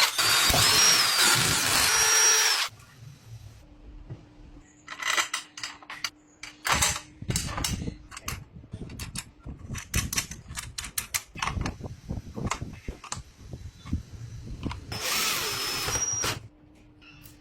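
Power drill running in two bursts, one at the start and a shorter one near the end, with a high whine that shifts in pitch. Between them come irregular clicks and knocks of parts being handled.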